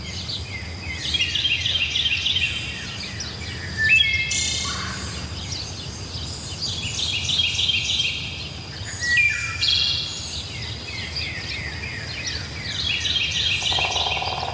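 Birds singing: a rapid trill of quick falling notes comes three times, with louder whistled calls that slide in pitch between the trills, over a steady low background hum.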